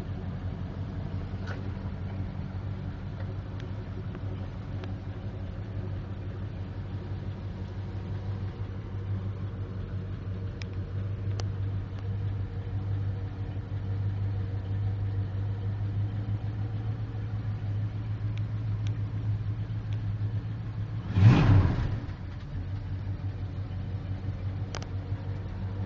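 1968 Plymouth Barracuda's engine idling steadily, heard from inside the cabin, with a few light clicks. Near the end there is one loud, brief thump.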